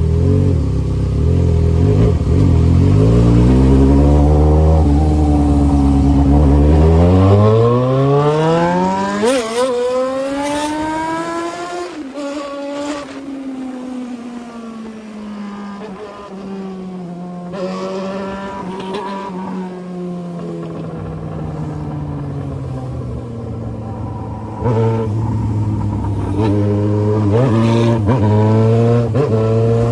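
Yamaha XJ6's inline-four engine through an aftermarket 3-inch exhaust. It revs up in a long rising pitch, peaking about ten seconds in, then drops slowly as the bike coasts down, and settles to a low rumble with a few short blips of throttle near the end.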